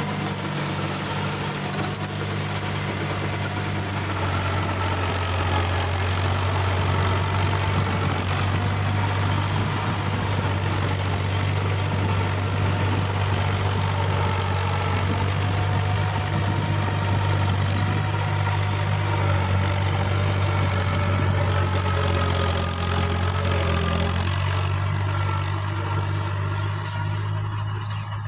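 Case JX55T tractor's diesel engine running steadily, a little louder through the middle and easing off near the end.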